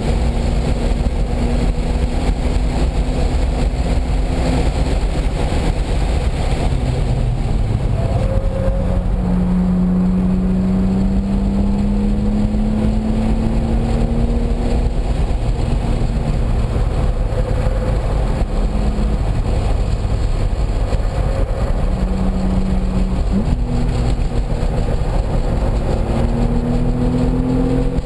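Race-track car engine at speed, heard on board, its pitch climbing slowly through long pulls and dropping suddenly at shifts or braking, over steady wind and road noise.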